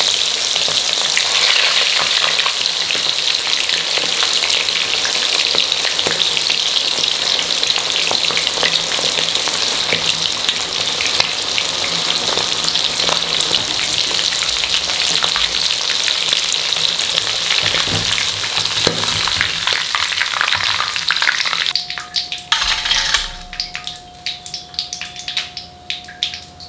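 Quail pieces frying in hot oil: a dense, steady sizzle and crackle. Near the end it cuts off suddenly, leaving scattered faint ticks and a thin steady tone.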